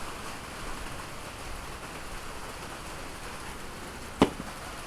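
Steady rain falling, with a single sharp knock about four seconds in.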